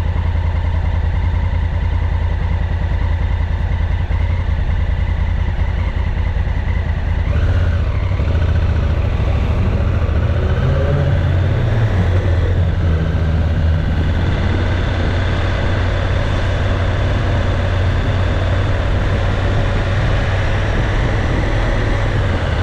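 Motorcycle engine running on the road, steady for most of the time, with the engine note rising and falling briefly around the middle.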